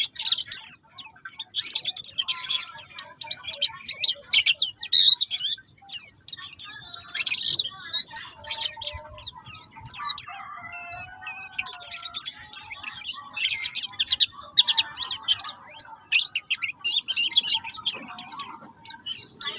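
White-eye (pleci buxtoni) singing: rapid high chirps and trilled phrases in quick succession with brief pauses, and a few lower warbling notes about halfway through.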